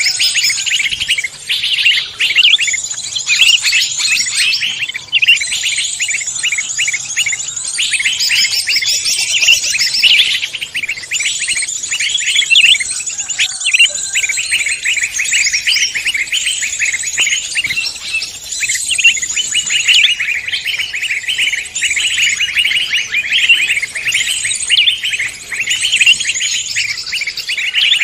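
A dense chorus of several forest songbirds singing at once: rapid high chirps, trills and whistles overlapping without a break.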